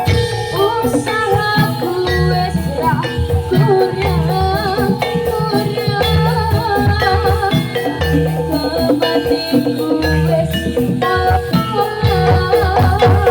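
Javanese gamelan music for Jathilan played through a sound system: metallophones and drums in a steady rhythm with jingling percussion, deep beats every couple of seconds, and a wavering melodic line on top.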